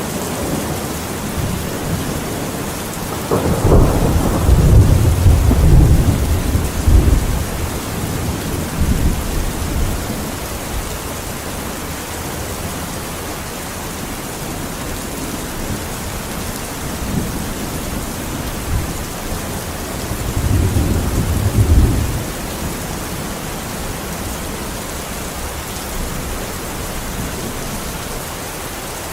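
Steady rain falling, with two deep rolls of thunder: a long one a few seconds in and a shorter one about twenty seconds in.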